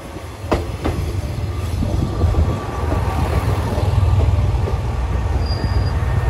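Diesel railcar pulling slowly into the platform, its low engine rumble growing louder as the cars pass close by. A couple of sharp wheel clicks come about half a second in, and a brief high squeal near the end.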